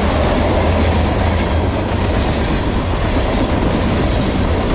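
Freight cars of a passing freight train rolling by close at hand: a steady, loud rumble of steel wheels on the rails, with a few clacks from the wheels at the rail joints.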